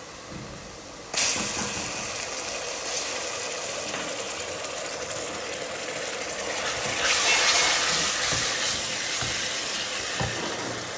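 Garlic, ginger and chili paste hitting hot oil with softened onions in a pressure cooker, bursting into a loud sizzle about a second in. The sizzle keeps going steadily and swells a few seconds later.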